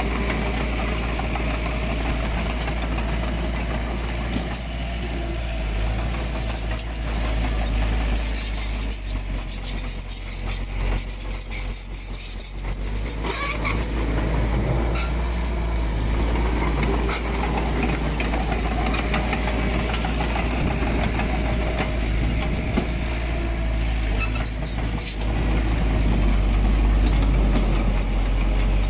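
Diesel engine of heavy earthmoving machinery running with a steady low drone. Scattered sharp clicks and rattles come in the middle and briefly near the end, and the engine grows louder toward the end.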